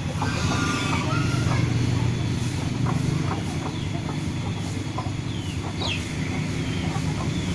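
Bird calls: short clucking notes about a second in and a few quick falling chirps later, over a steady low hum.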